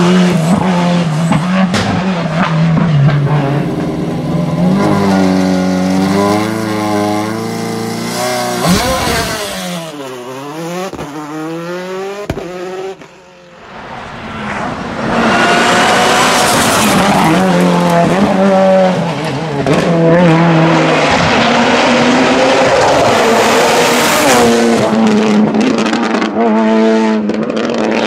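Hillclimb race car engines at high revs, the pitch climbing and dropping back in steps as they shift gears. About ten seconds in one car's sound falls in pitch and fades as it goes by, and a few seconds later another car comes in loud, revving up through its gears.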